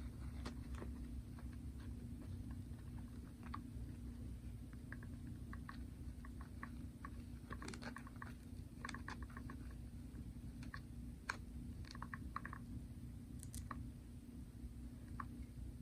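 Faint scattered small clicks, taps and rustles of a plastic fashion doll and its outfit pieces being handled, over a steady low hum.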